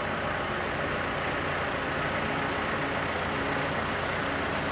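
Engine of a JLG lift running steadily, a constant drone with a low hum.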